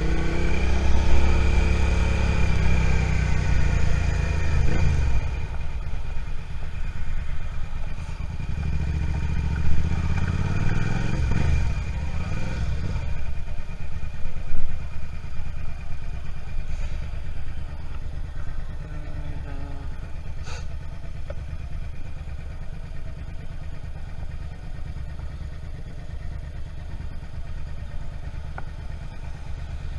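Suzuki SV650 motorcycle's V-twin engine pulling and then easing off in the first few seconds, picking up again briefly around ten to twelve seconds in, then settling into a steady low idle-like pulse for the rest.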